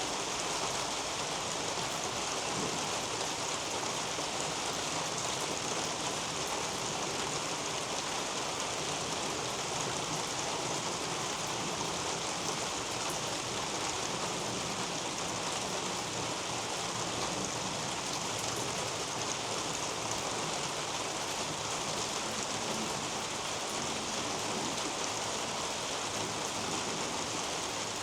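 Steady rain falling on a leafy garden canopy, an even hiss with no single drops standing out.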